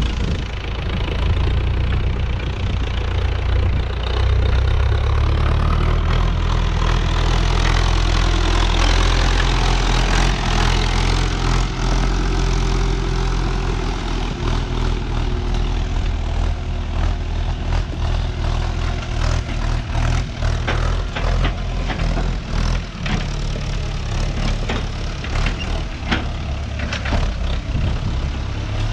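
Renault 651 tractor engine running steadily, louder for the first dozen seconds. In the second half, frequent sharp knocks and clatter sound over it.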